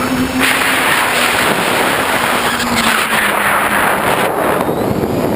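Tricopter's electric motors and propellers whirring with a steady hum that drifts slightly lower in pitch. About half a second in, a loud, even rushing noise comes in over it.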